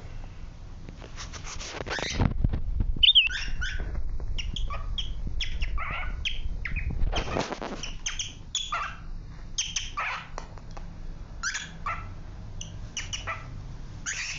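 Cockatiels squawking and screeching in quick, short calls as they squabble, with a stretch of scuffling and rustling from about two seconds in to the middle.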